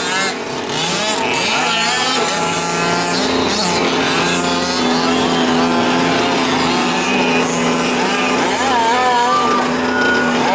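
Several gas-powered 5th-scale RC trucks' small two-stroke engines running on a race track, revving up and down as they race.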